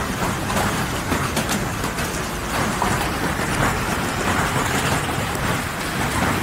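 Heavy hail pounding down: a dense, steady clatter of countless small impacts.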